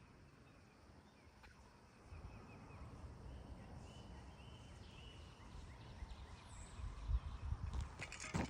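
Faint outdoor ambience: a low rumble, likely wind on the microphone, that starts about two seconds in and grows toward the end, with a few faint bird calls in the middle.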